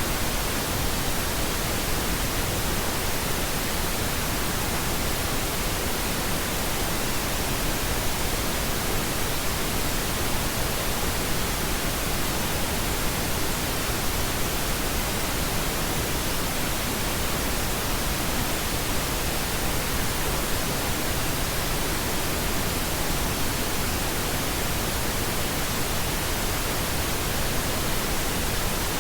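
Steady pink noise: an even, unchanging hiss spread across all pitches, generated as a sleep sound.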